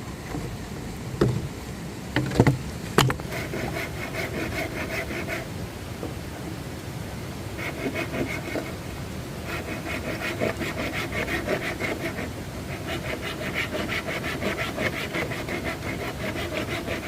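A few sharp knocks on wood, then spells of fast, even rasping strokes with a ringing pitch: wood being sawn by hand.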